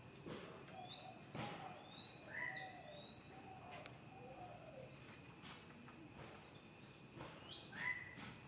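Wild birds chirping faintly: a run of short, quick rising chirps from about one to three seconds in, and a few more near the end, with softer lower notes beneath them.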